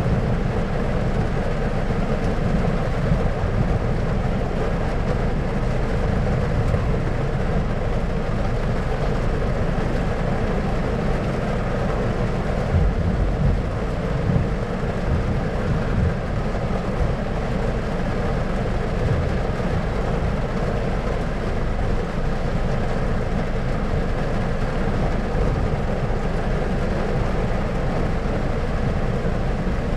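A steady, even rumbling noise with its weight in the low end and a fainter hiss above. There are no distinct claps or strikes, only slight swells in loudness about halfway through.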